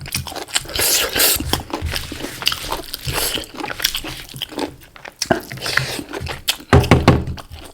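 Close-miked chewing and biting of cooked chicken, with irregular wet crunching and clicks as the small bones are bitten.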